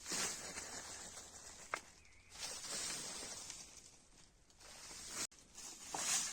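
Repeated rustling, scraping swishes from hands or tools working material, with one sharp click a little under two seconds in.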